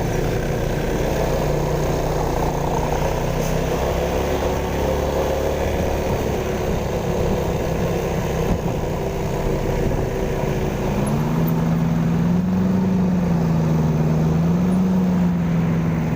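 Vehicle engines running in slow, congested traffic: a steady low rumble, with one engine's note rising and falling from about eleven seconds in.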